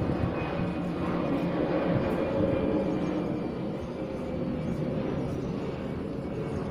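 Steady drone of a distant engine, with a low hum, slowly easing off.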